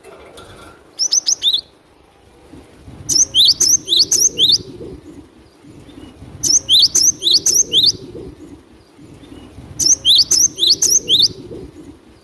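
Cinereous tit (gelatik batu) singing: four bursts of quick, high repeated notes, each burst a rapid string of short sweeping calls, coming about every three seconds, the first burst shorter than the rest.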